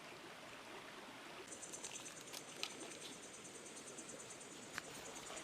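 Faint flowing river water, with a high, steady insect trill joining about a second and a half in and a few scattered clicks.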